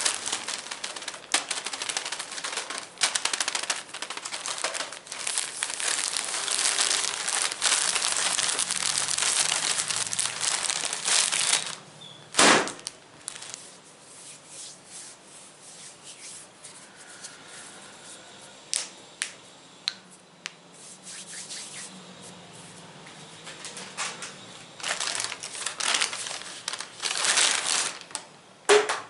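Close-up crinkling and scratching of an object handled in the hands for about eleven seconds. Then one sharp loud tap, a quieter stretch of scattered single taps, and dense crinkling again near the end.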